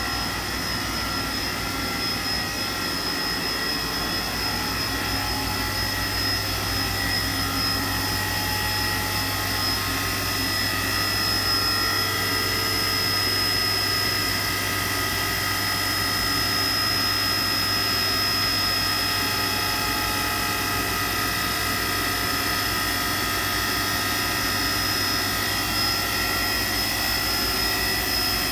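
1993 Awea PB2110 vertical machining center running under power: a steady mechanical hum with several high, steady whining tones over it, growing slightly louder about ten seconds in.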